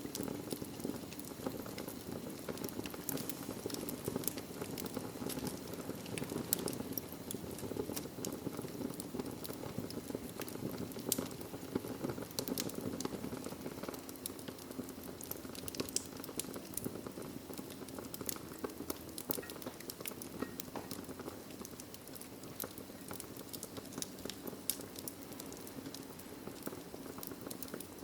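Wood fire crackling in a fireplace: a steady low rush of flame with frequent, irregular sharp pops and snaps.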